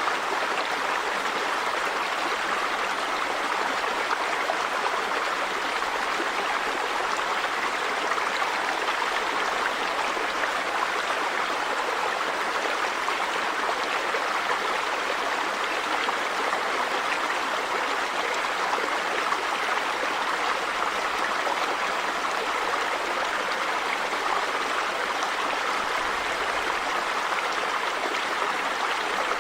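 River water running over rocks in a steady, even rush.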